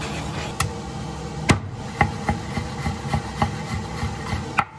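Kitchen prep sounds: a wooden spoon working through tomato sauce in a pan, then a chef's knife chopping parsley on a wooden cutting board. Irregular wooden knocks come two or three a second over a steady background hum.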